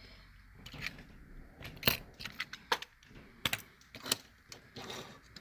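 Light clicks and taps of small 1/64-scale die-cast toy cars being handled and set down, with several sharp knocks about two, three and a half, and four seconds in.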